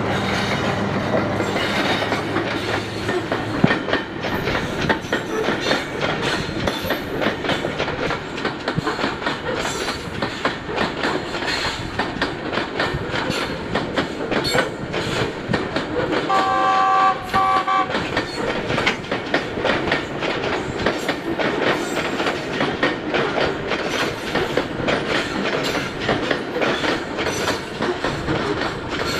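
Loaded coal train passing at about 31 km/h: the GE U40 diesel-electric locomotive's engine drone at first, then the wagons' wheels clattering steadily over rail joints. Midway a two-pitch horn sounds in short blasts for about a second and a half.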